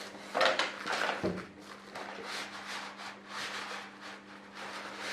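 Box packaging being handled and pulled apart: irregular rustling, rubbing and scraping of cardboard and foam packing, loudest about half a second in. A faint steady low hum runs underneath.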